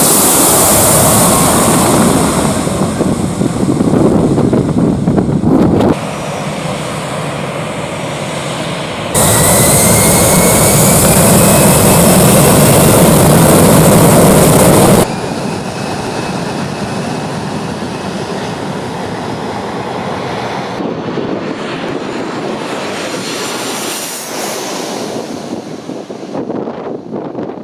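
Jet airliner engines running at close range, a loud steady roar spliced from several clips that cut abruptly about 6, 9 and 15 seconds in; a high whine rises in pitch just after the second cut.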